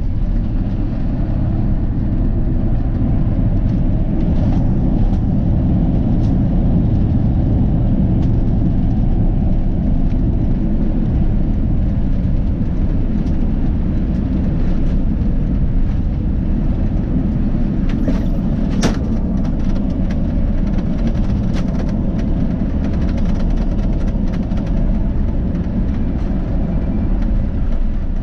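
Steady low rumble of an Airbus A350-900 in motion, heard from inside the cabin, with a few faint clicks and one sharp click about two-thirds of the way through.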